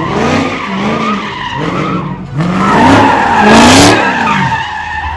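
V8 muscle car doing donuts: the engine revs up and down about once a second over squealing tyres, loudest about three to four seconds in and fading near the end.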